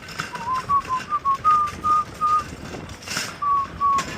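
A person whistling a tune: a run of short, clear notes, some sliding slightly in pitch, with a brief tick about three seconds in.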